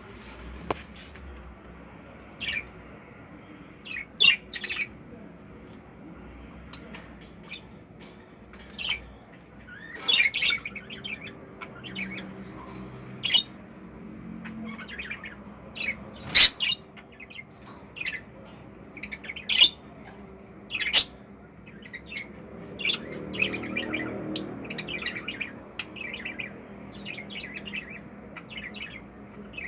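Caged budgerigars chirping and squawking in short, scattered calls, with a faint steady hum beneath.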